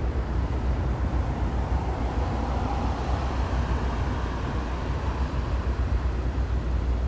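Outdoor rumble with wind buffeting the microphone, and a distant engine sound that swells and fades a few seconds in.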